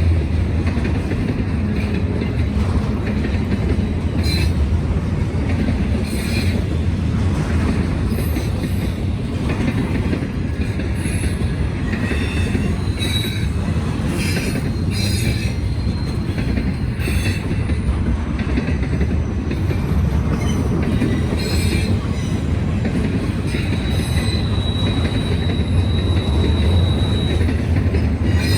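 Norfolk Southern freight train cars rolling past with a steady rumble and irregular clacking of wheels over the rails. A thin, high wheel squeal sounds for a few seconds near the end.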